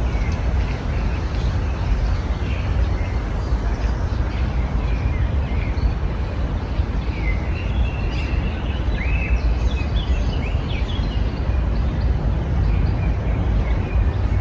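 Small songbirds chirping and twittering in short calls, busiest around the middle, over a steady low rumble.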